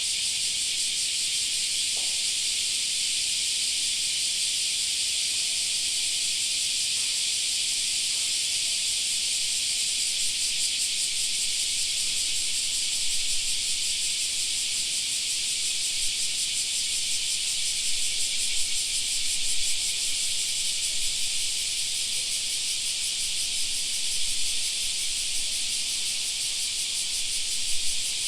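Chorus of summer cicadas: a dense, steady, high-pitched buzzing hiss with a fast pulsing texture.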